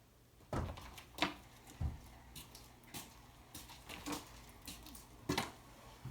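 Irregular knocks and clicks, about half a dozen over a few seconds, over a faint low hum.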